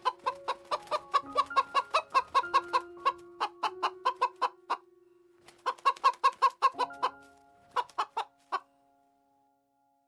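Domestic hens clucking in quick runs of short clucks, about four a second, with a brief pause in the middle. They stop a second before the end, over background music with held notes.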